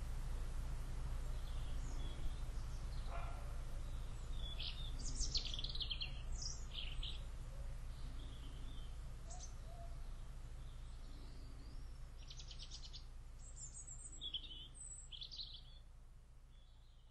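Birds chirping in short high calls, scattered through the middle, over a steady low rumble; it all fades out near the end.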